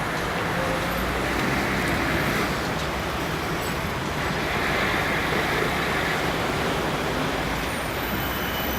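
Passenger train rolling past on departure, a steady rumble and hiss of wheels on rail.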